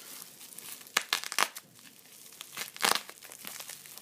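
Packaging crinkling and rustling as it is handled, in short bursts, loudest near the end.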